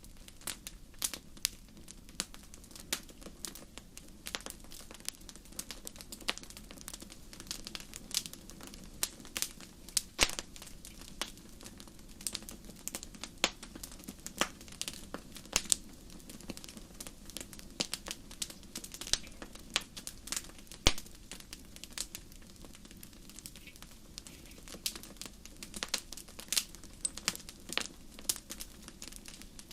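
Wood fire crackling in a fireplace: irregular sharp pops and snaps, several a second, over a steady low background rush of the flames.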